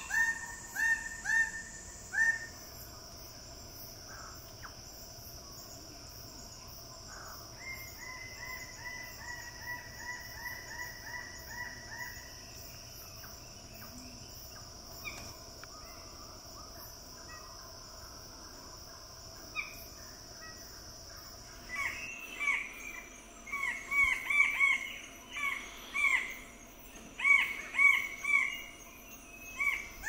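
Birds-of-paradise calling in loud series of quickly repeated notes, at the very start and again through the last eight seconds or so, with fainter series in between. A steady high insect drone runs underneath.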